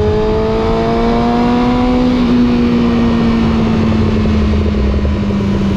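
Suzuki GSX600F cafe racer's inline-four engine and exhaust running under way. The engine note climbs gently for about two seconds, then holds nearly steady.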